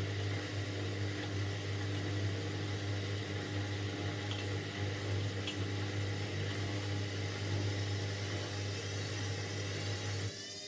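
Indesit 71252 washing machine running with a steady low mechanical hum and a few faint clicks. The hum cuts off suddenly about ten seconds in, leaving a fainter wavering whine.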